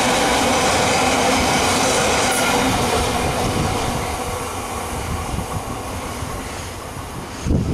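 A train running past on the line, a dense rumble with steady high tones over it that dies away over the last few seconds. A brief low thump comes near the end.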